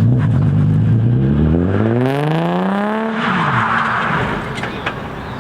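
Car engine revving hard, its note climbing steadily for about three seconds, then falling away as the throttle is released, with a burst of hiss at the peak.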